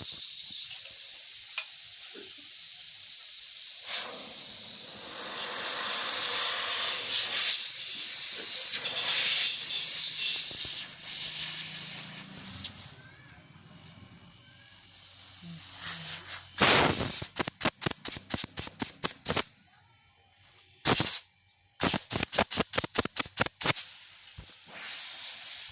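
Steady hiss of air blowing from the line of a running National quarter-horsepower refrigerator compressor, a sign that it is pumping pressure; the hiss dies away about halfway through. Later come two runs of rapid sharp clicks, each lasting two or three seconds.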